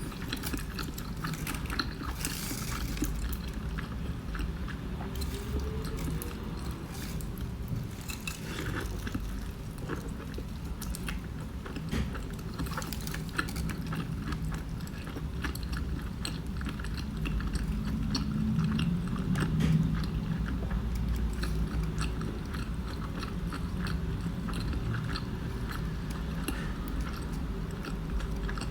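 Close-up sounds of a person biting into and chewing a breakfast burrito in a flour tortilla, with soft wet chewing and small crackles of the wrap.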